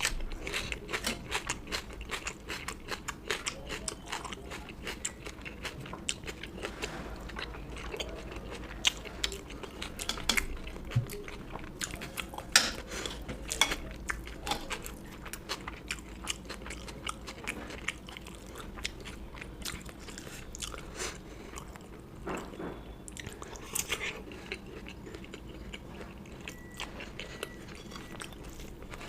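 Close-miked eating sounds: a person chewing mouthfuls of curry and rice, with many sharp crunchy clicks and smacks, dense at first and sparser in the second half.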